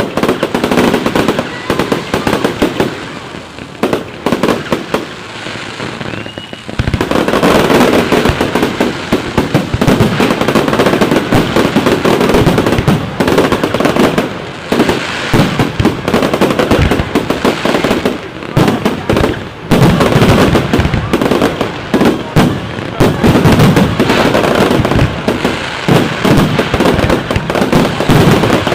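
Fireworks display: rapid bangs and crackling shells, thickening about seven seconds in into a dense, nearly continuous barrage of explosions.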